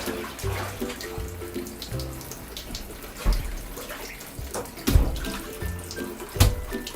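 Water sloshing in a bathtub as a soaked bed cover is trodden underfoot to work the soap out, with three louder splashes in the second half. Background music plays.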